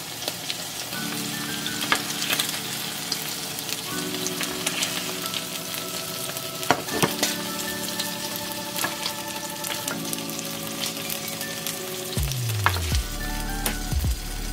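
Chicken breast sizzling as it fries in oil and ghee in a pan, with a few sharp clicks. Soft background music with held chords plays underneath.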